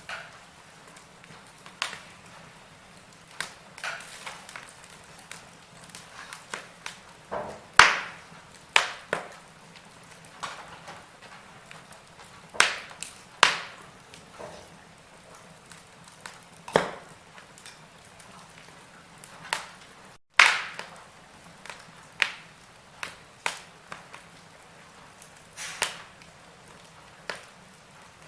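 Wood fire crackling in a fireplace: irregular sharp pops and snaps over a soft hiss, several louder pops among them. The sound cuts out for an instant about twenty seconds in.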